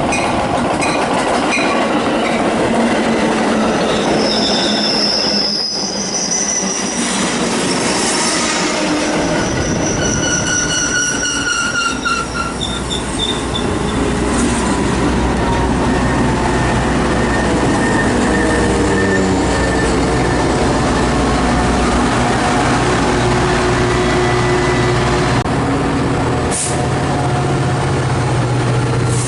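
Metra commuter train arriving at the platform and slowing, with wheels and brakes squealing high for the first dozen seconds. A steady low diesel drone follows, with tones that fall as the train comes to a stop.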